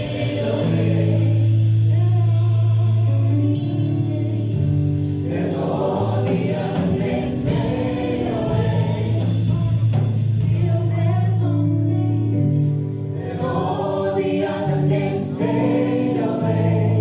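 Gospel choir singing a worship song with band accompaniment: long held bass notes under the voices and a steady beat of percussion hits.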